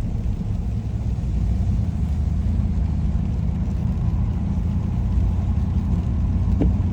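Steady low rumble of a car driving on a rain-wet road, heard from inside the cabin, with a single short click near the end.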